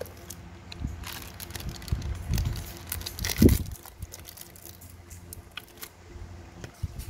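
Scattered small clicks and light knocks of a metal Zippo lighter being handled, with a louder dull thump about three and a half seconds in.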